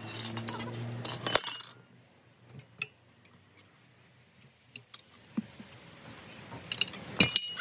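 Metal parts clinking and ringing against each other, the sound of tools and wheel hardware being handled, over a steady low hum that stops abruptly about a second and a half in. After a quiet stretch with a few small ticks, another burst of ringing clinks comes near the end.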